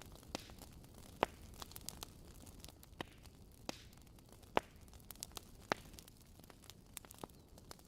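Fireplace fire crackling: irregular sharp pops and snaps over a low steady hiss and rumble. The loudest pops come about a second in and around four and a half and five and a half seconds in.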